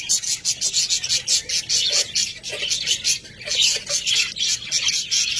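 Budgerigars chattering: a continuous, fast stream of short high-pitched chirps and warbles.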